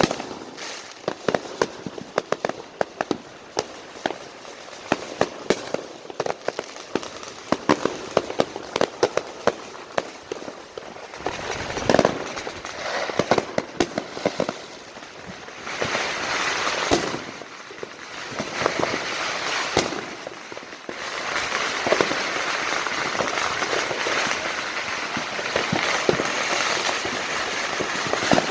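Fireworks and firecrackers going off all around: many scattered sharp bangs at first, then from about halfway a dense, continuous crackle of firecracker strings, louder than before.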